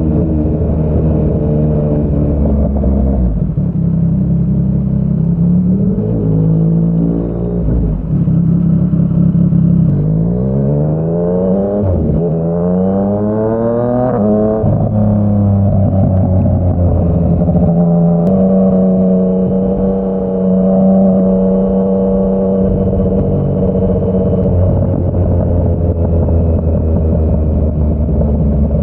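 Yamaha MT-09's three-cylinder engine through a Yoshimura R55 slip-on exhaust, heard from the bike while riding. It holds a steady note, then about ten seconds in pulls hard with the pitch rising twice as it climbs through a gear change, and settles back to a steady cruise.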